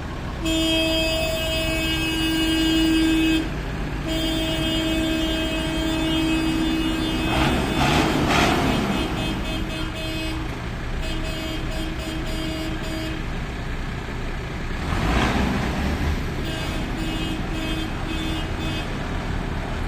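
Vehicle engines running with a horn sounding on one steady pitch, first in two long blasts and then in strings of short, repeated toots. The engine noise swells twice, about eight and fifteen seconds in.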